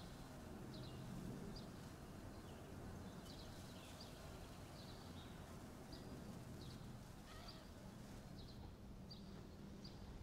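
Faint ambience of a small bird chirping, short high chirps about every half second, over a low steady hum of room tone.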